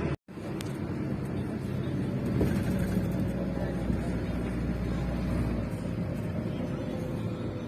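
Steady low rumble of a moving bus, engine and road noise heard from inside the cabin, after a moment's silence right at the start.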